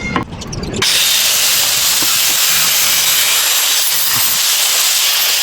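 Small high-speed power tool running steadily: a loud hissing whir with a faint high whine. It starts about a second in, after a few light knocks, and begins to wind down at the very end.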